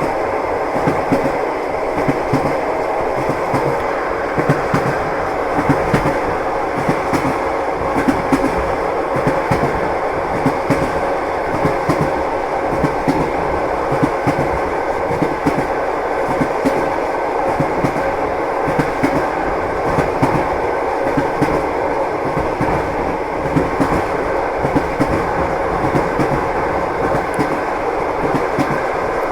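Train wheels clattering over the rail joints as the train rolls along: a steady rumble with repeated short knocks.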